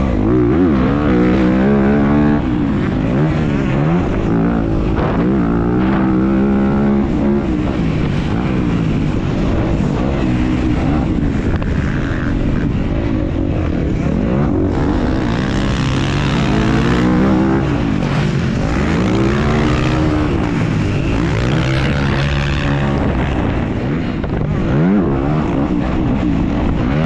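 Dirt bike engine revving up and falling off again and again, its pitch rising and dropping every few seconds as the throttle is worked through the track's turns and jumps.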